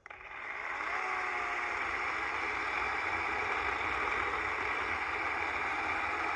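DeWalt 20V battery chainsaw spinning up when the trigger is pulled, then running steadily as it cuts into a hickory trunk.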